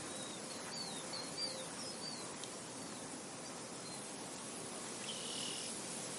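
Soft wind hissing steadily over a field, with a few short bird chirps in the first couple of seconds and a longer bird call about five seconds in.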